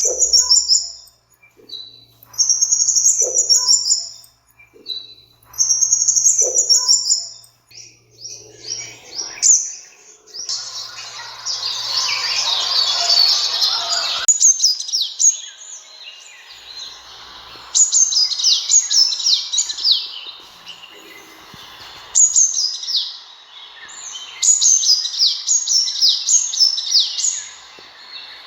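Sunbird calling: short phrases of high, thin chirps, then from about halfway on quick runs of sharp downslurred notes repeated in bursts. A stretch of hissy noise comes in about ten seconds in and lasts some four seconds.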